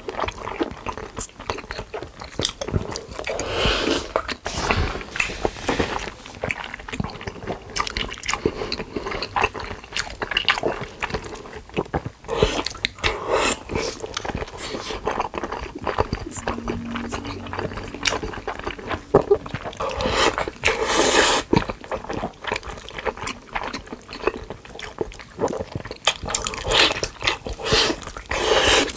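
Close-miked chewing of large mouthfuls of food, with irregular mouth clicks and smacking.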